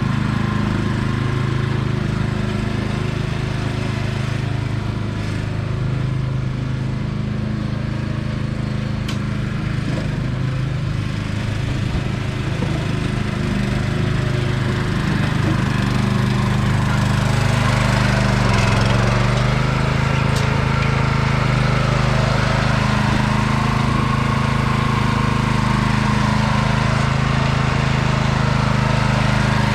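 Sears 10XL garden tractor's engine running steadily under load while pushing dirt, its speed sagging briefly about two-thirds of the way through before recovering.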